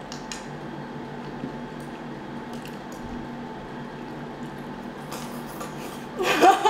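Close-miked chewing and wet mouth sounds of people eating, with a few faint clicks, over a steady low hum. A voice breaks in loudly near the end.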